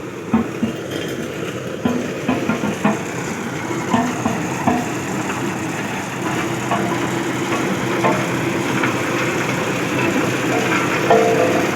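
Road roller's engine running steadily, with scattered short knocks and clicks over it.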